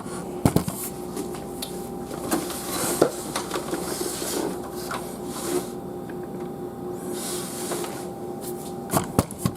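Scraping and rubbing of plastic and metal with scattered clicks and knocks as a chassis fan is fitted and screwed into a computer case.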